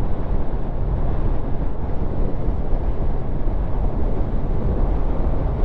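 Wind rushing over a helmet-mounted microphone, with a Kawasaki motorcycle's engine running steadily underneath as the bike rides along at road speed.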